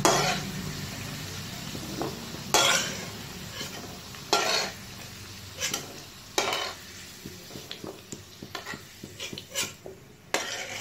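Fried carrot pieces sizzling in hot oil in a metal kadai as they are scooped out, with a metal spatula scraping and knocking against the pan about seven times. The sizzle dies down as the pan empties.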